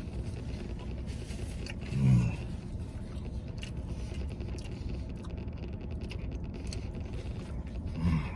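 A man chewing a mouthful of cheeseburger, with a short hummed sound about two seconds in and another near the end, over a steady low rumble in a vehicle cab.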